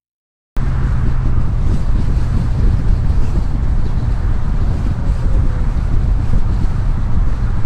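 Steady road and wind noise of a car driving, with a low steady hum underneath, cutting in suddenly about half a second in.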